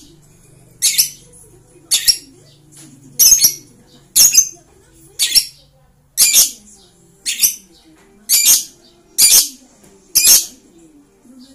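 Lovebird giving shrill, high-pitched chirping calls, each brief, repeated about once a second in a steady series.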